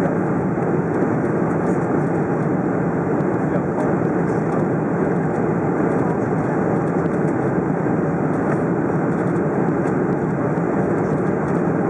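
Steady cabin noise inside a Boeing 747-400 airliner: engine and airflow noise, even and unchanging.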